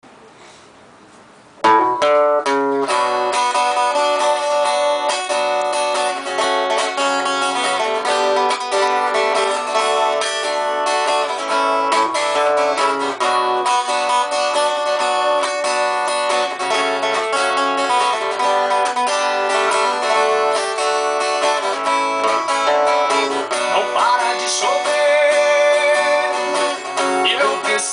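Acoustic guitar playing the instrumental introduction to the song, starting suddenly about two seconds in.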